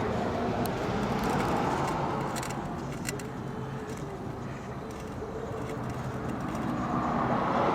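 Motor-vehicle traffic noise: a steady hum of passing cars that swells at the start, dips in the middle and builds again near the end, with a few faint clicks.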